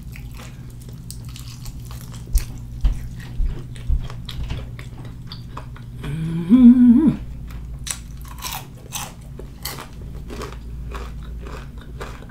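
Close-miked chewing of crispy fried chicken: wet mouth clicks and crunching of the crust, with a few louder crunches between about two and four seconds in. A brief hum rises out of it about six and a half seconds in.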